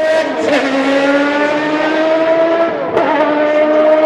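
Jaguar XJR-14's 3.5-litre V8 race engine running at high revs. Its pitch holds nearly steady, with a brief wobble about half a second in and a small dip near three seconds.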